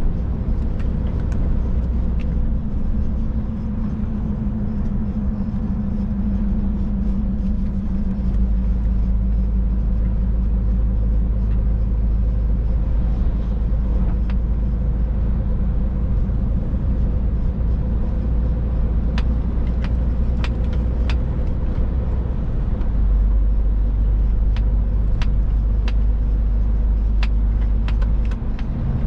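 Steady engine and road rumble of a Scania truck driving, heard from inside the cab. The engine note strengthens a few seconds in, and scattered sharp clicks come near the end.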